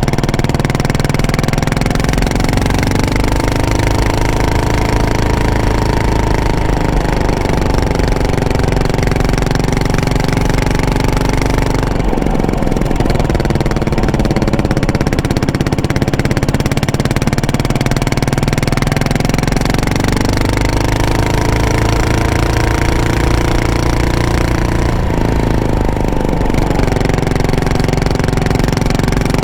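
Yamaha SR400's air-cooled single-cylinder four-stroke engine running through an aftermarket muffler while riding. The revs climb over the first few seconds and hold, drop suddenly near the middle, then climb and drop once more near the end.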